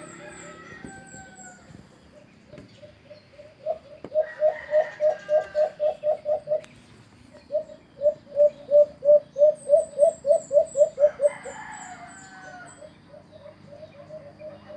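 Alimokon dove giving two long runs of quick, evenly spaced hooting coos, about four or five notes a second, the first about four seconds in and the second just after, louder. Thin high chirps sound near the start and during the second run.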